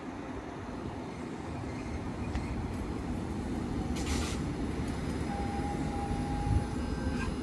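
Class 331 electric multiple unit pulling into the station, rumbling and slowly growing louder. A short hiss comes about four seconds in, and a brief high tone a second or so later.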